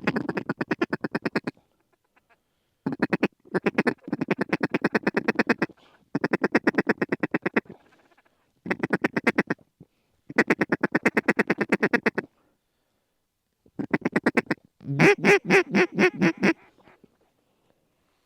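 A mallard duck call blown in repeated quick runs of quacks, about a dozen notes a second. There are some eight runs with short pauses between. The last run, near the end, is the loudest, as the flock is called in over the decoy spread.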